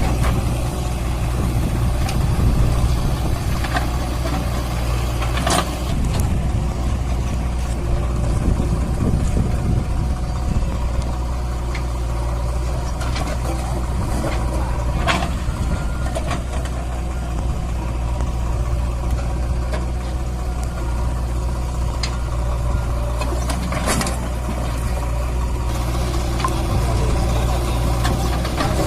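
Swaraj 744 FE tractor's three-cylinder diesel engine running at a steady, unchanging speed, with a few faint clicks or knocks here and there.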